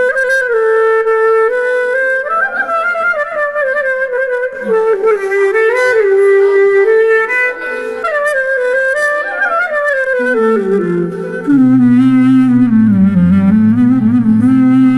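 A clarinet-like tone from a Zoom G3n multi-effects processor plays a single melodic line that slides and bends between notes. About ten seconds in it drops to a lower register and gets louder.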